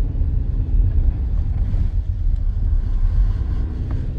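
Steady low rumble of a two-wheel-drive car driving on snowy roads, heard from inside the cabin.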